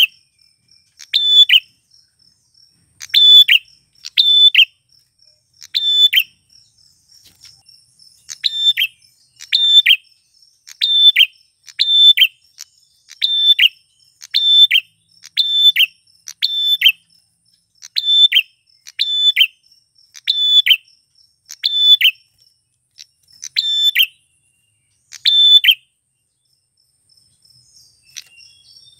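Male prinia (prenjak klawu) calling: a regular series of short, sharp high calls, roughly one every second, with a brief pause near the end.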